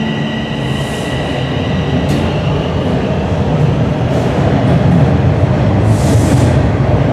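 Toronto subway train running through the station: a heavy rumble with rail noise that grows louder, and brief hissing about a second in and again near the end.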